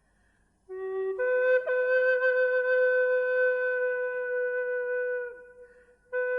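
Slow solo music on a flute-like wind instrument. A short low note about a second in is followed by one long held note that bends down and fades out, and a new note starts near the end.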